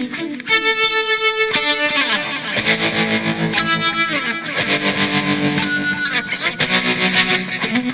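Electric guitar played through a Fender Santa Ana Overdrive pedal with a driven tone: a run of sustained notes and chords with several slides in pitch.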